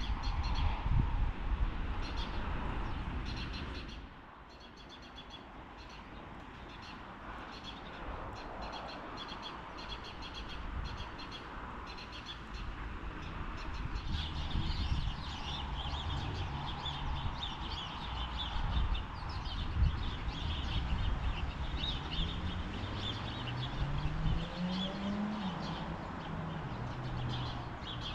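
Small birds chirping, many short high calls that grow busier about halfway through, over a low rumble that is loudest in the first few seconds.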